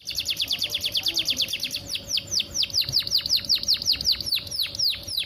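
Domestic canary singing: a fast trill of short repeated high notes, then, about two seconds in, a slower run of downward-sweeping whistled notes at about five a second.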